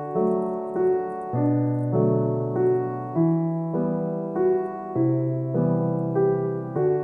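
Background music: a gentle solo piano piece, with the melody notes and chords changing about every half second.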